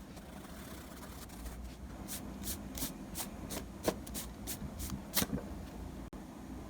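A run of about ten quick, light clicks or taps, roughly three a second, from the drawing work, over a steady low hum.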